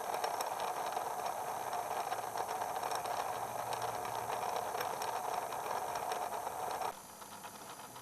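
Kimball player piano E/F transmission running with a brass replacement gear: a steady gear whir and rattle. The noise drops off sharply about seven seconds in.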